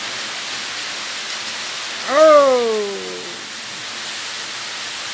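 Rain falling steadily in a continuous hiss. About two seconds in, a single call of about a second cuts through it, rising quickly in pitch and then gliding down.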